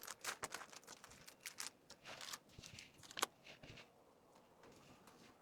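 Faint rustling and light clicks of packaged merchandise being handled, with one sharper click a little past the middle; it settles down over the last second or so.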